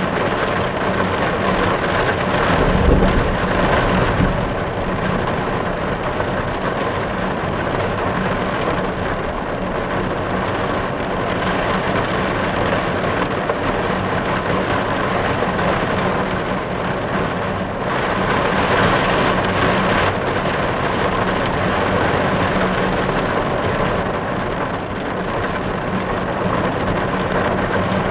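Rain falling on a car's roof and windows, heard from inside the car as a steady patter, with a brief low rumble about three seconds in.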